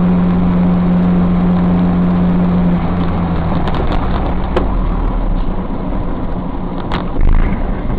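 Car driving: steady engine and road noise with a strong low hum that fades about three seconds in, a few sharp clicks, and a brief louder moment near the end.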